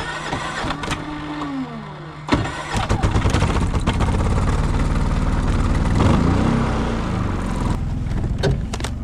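Portable generator's engine being started, catching about two and a half seconds in and then running steadily.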